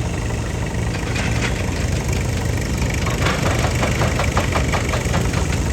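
Excavator engine running steadily with a low rumble. About halfway through comes a run of quick ticks or clatter, about five a second, lasting a couple of seconds.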